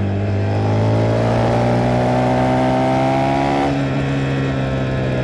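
KTM 390 Duke's single-cylinder engine under hard acceleration, its pitch climbing steadily for about three and a half seconds, dropping suddenly, then climbing again, with wind rush over it.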